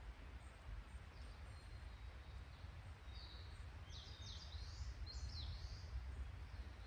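A small bird chirping, a quick run of short high notes about three to five seconds in, over a steady low rumble and faint hiss of outdoor background noise.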